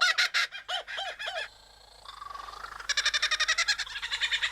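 Superb lyrebird singing mimicked birdsong: a fast run of repeated chattering notes, a short pause with a faint sliding call, then another fast chattering run from about three seconds in.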